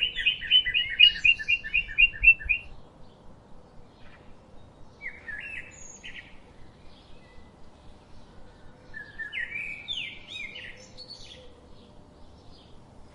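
Birds singing outdoors: a fast trill of repeated high chirps, about four a second, for the first two and a half seconds, then shorter scattered calls about five seconds in and again near ten seconds.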